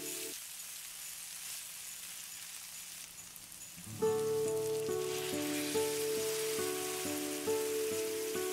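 Red onions sizzling in hot oil in a wok, a steady frying hiss that continues as tomato puree is poured in near the end. Gentle plucked-guitar background music drops out just after the start and comes back about four seconds in.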